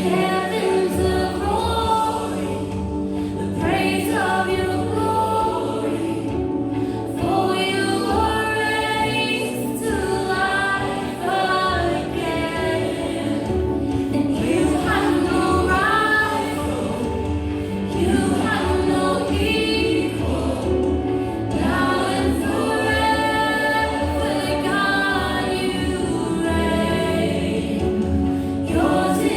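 Christian worship song sung by several voices over sustained instrumental backing.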